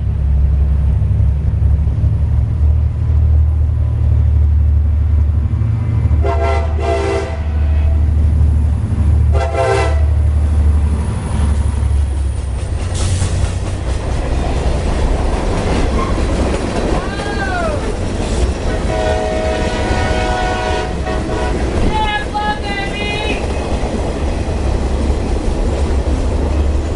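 Train passing close: a loud, steady low diesel-locomotive rumble, with two short horn blasts about six and nine seconds in, then the rolling rattle of the cars going by.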